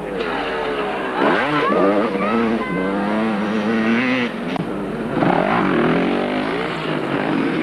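Several motocross bike engines racing, revving up and down in overlapping waves as riders accelerate and ease off around the track.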